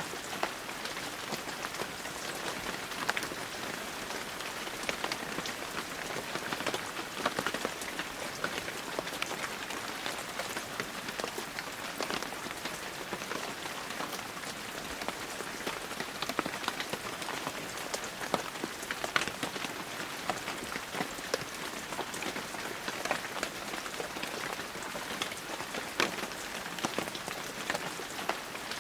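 Heavy rain falling steadily, with many individual drops ticking close by.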